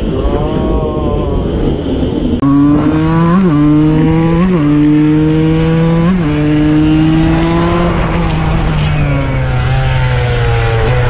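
Kawasaki KX 125 two-stroke single-cylinder engine at high revs, close-up over wind noise. Its pitch jumps briefly three times, then settles a little lower after about eight seconds as the bike runs on. For the first two seconds a fainter engine rises and falls in pitch under a rush of wind, before the sound switches abruptly to the close, loud engine.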